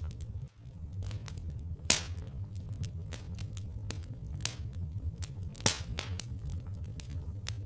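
Wood fire crackling: irregular sharp pops and snaps, the loudest about two seconds in and near six seconds, over a steady low rumble.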